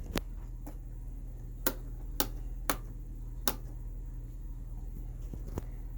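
A series of sharp switch clicks, about seven of them at irregular intervals, over a steady low hum, as the controls of a Marantz 4400 stereo receiver are operated for a test after repair.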